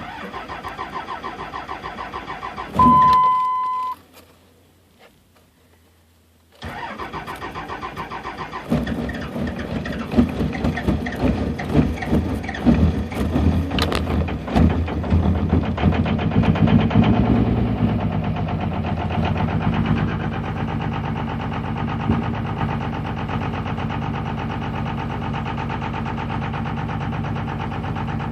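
A loud electronic beep about three seconds in. Then a 2003 Cummins 5.9-litre inline-six diesel cranks and catches on a cold start at −25 with no block heater: it runs rough and uneven with heavy knocking at first, then settles into a steadier idle near the end.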